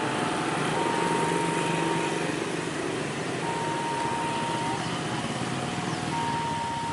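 Two-tone electronic railway warning alarm sounding in turns, a higher and a lower tone each held about a second, over the steady rumble and hum of a train's diesel locomotive.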